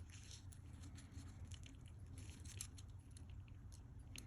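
Faint, scattered light clicks and ticks of tiny watch parts being handled and pressed together as a Casio F91 module is reassembled, over a low steady hum.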